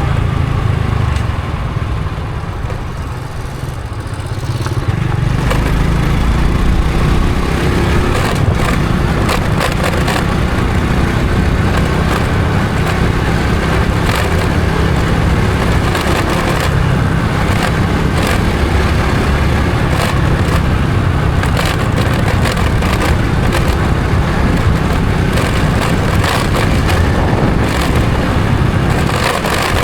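Honda Supra X 125 FI's single-cylinder four-stroke engine running under way, with wind and road noise. It eases off and goes quieter about two seconds in, then picks up again after about five seconds and runs steadily.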